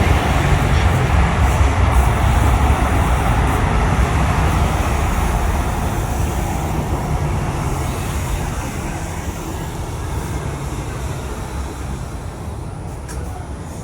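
Jet airliner engine noise, a deep rumble that fades steadily as the aircraft moves away.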